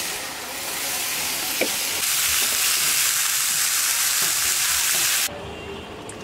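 Cauliflower florets sizzling in hot oil in a kadai, an even frying hiss with a couple of light clicks. The hiss cuts off suddenly about five seconds in.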